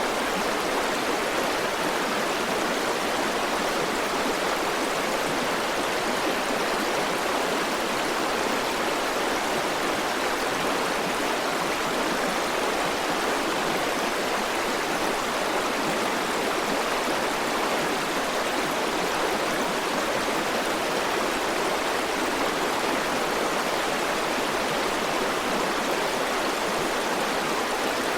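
River water flowing in a steady, even rush, without change or distinct splashes.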